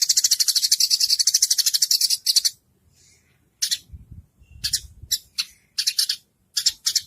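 A songbird call recording used for masteran. A fast, high-pitched rattling trill stops about two and a half seconds in, and is followed by a string of short, high rattling chirps.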